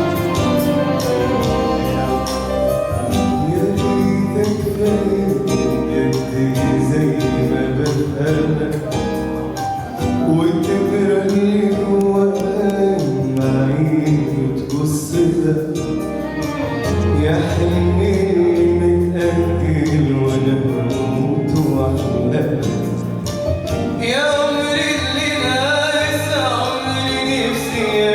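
An Arabic song sung with instrumental accompaniment: long sung notes sliding in pitch over a steady musical backing.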